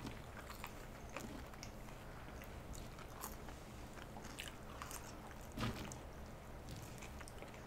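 Faint, close-miked chewing and biting of fast-food fries and burger: soft wet mouth clicks and small crunches.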